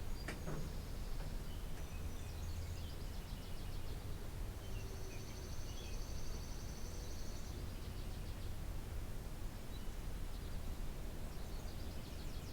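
Songbirds singing in short high trills, with one long trill held for about three seconds midway, over a steady low rumble of background noise.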